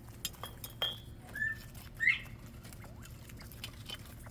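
A flock of quail pecking at scattered seeds, a patter of irregular small clicks, with a few short high chirps; the loudest chirp comes about two seconds in.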